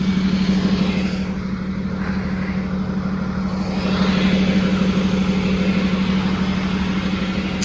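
A motor vehicle's engine running steadily, a constant low drone with an even pulse and no change in speed.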